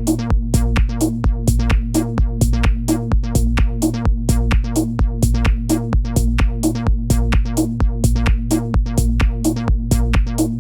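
Experimental techno loop made with Ableton Live 10's built-in instruments and effects: a steady drum-machine pattern of quick percussive hits, about two accented ones a second with lighter ones between, over a sustained low bass drone.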